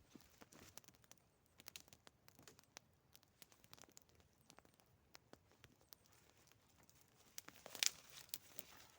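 Campfire of damp, rain-soaked wood crackling faintly, with irregular small pops and a louder snap about eight seconds in.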